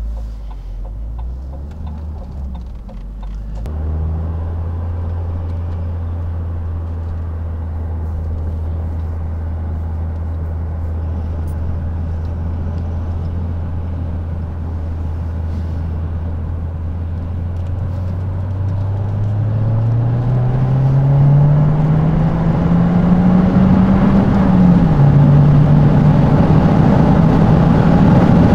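Opel Astra OPC's 2-litre turbocharged four-cylinder engine heard from inside the car, first running steadily at cruise, then pulling hard under acceleration. The note climbs and grows louder for several seconds, drops suddenly near the end as it shifts up a gear, and carries on at a higher pitch.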